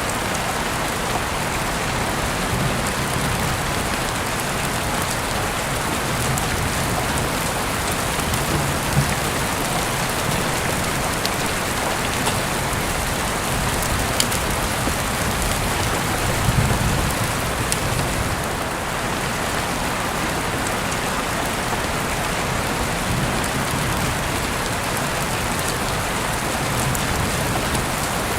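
Heavy rain falling steadily, heard through an open window, with occasional sharper drop taps and a few brief low swells under the hiss.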